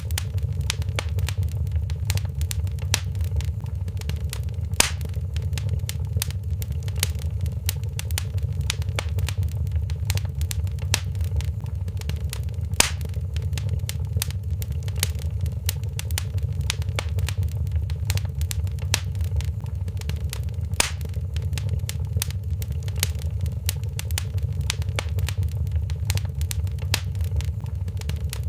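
Wood fire in a fireplace crackling steadily, with many small snaps over a low rumble. Three louder pops stand out, evenly spaced about eight seconds apart.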